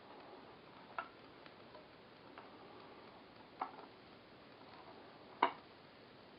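A few light, irregularly spaced clicks over a faint steady hiss, the loudest near the end.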